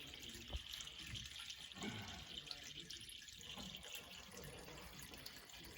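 Faint trickling and dripping of liquid.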